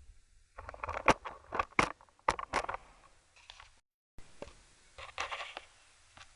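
Small metal parts being handled: a magnetic screwdriver and pillar bolts on a Boyer ignition back plate, giving a run of sharp clicks and taps, then a short rattling scrape about five seconds in.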